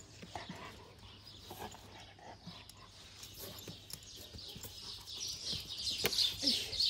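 Small birds chirping in quick, repeated high calls that grow loud about five seconds in, over faint scattered ticks and rustles.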